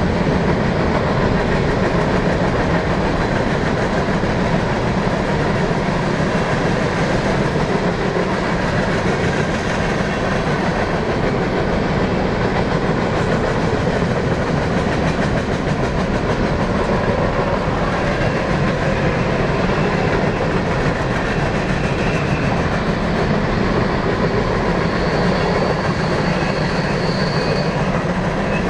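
Empty freight cars of a BNSF manifest train, boxcars and covered hoppers, rolling steadily past with the clickety-clack of wheels over rail joints. A brief faint high-pitched squeal comes near the end.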